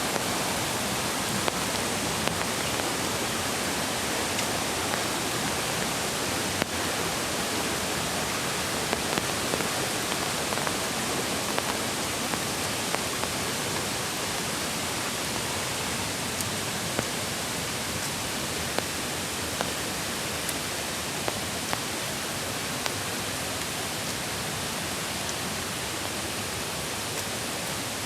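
Mountain creek water rushing steadily, with scattered sharp ticks of raindrops falling now and then.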